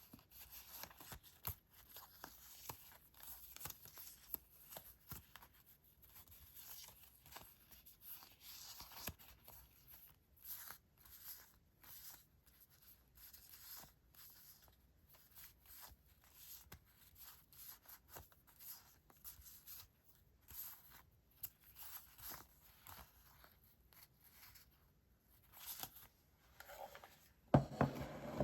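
Paper and stationery rustling and crinkling in many short, crisp scrapes as sticker sheets and paper items are handled. Near the end comes a louder knock, like an item set down on the desk.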